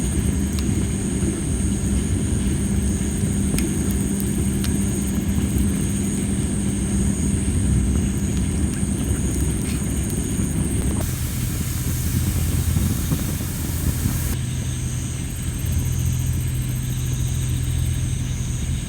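Wood fire of tree-of-heaven (Ailanthus) logs burning, with a few sharp crackles in the first five seconds, over a steady low rumble with an engine-like hum that drops in pitch about halfway through. Insects trill steadily at a high pitch.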